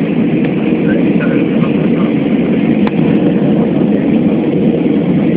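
Steady cabin noise of a jet airliner coming in to land: the even rush of engines and airflow heard from inside the passenger cabin, with a faint steady hum.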